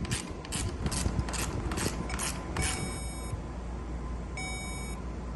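Hand ratchet wrench being worked, a rasping click on each stroke about twice a second, stopping a little under three seconds in. Afterwards faint high-pitched tones come and go over a low steady hum.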